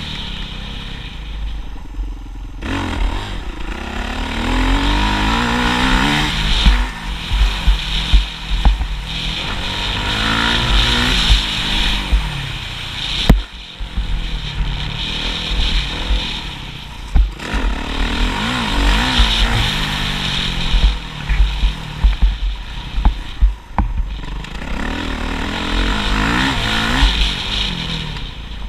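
Motocross bike engine revving hard, its pitch rising and falling over and over as the rider works the throttle and shifts gears, with a heavy buffeting rumble underneath.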